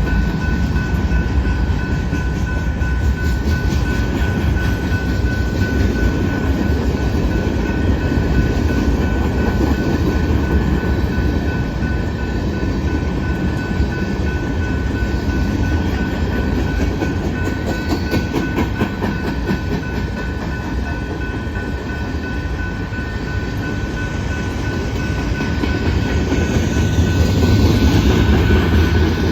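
Freight cars of a Canadian Pacific manifest train rolling past slowly: a steady low rumble with wheel clicks over the rail joints and a thin steady high-pitched ring, growing a little louder near the end.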